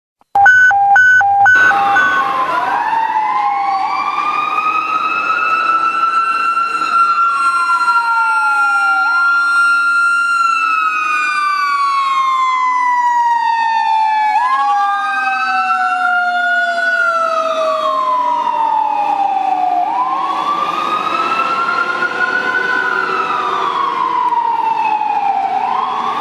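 A fire engine's Federal Q2B mechanical siren winds up, holds its scream, then slowly coasts down in pitch. Under it, Whelen dual electronic sirens wail in overlapping rising-and-falling sweeps every few seconds. Three short horn blasts sound at the very start.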